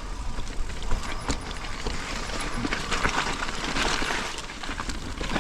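Mountain bike rolling down a dirt trail: tyre noise on the dirt with a continual clatter of knocks and rattles from the bike.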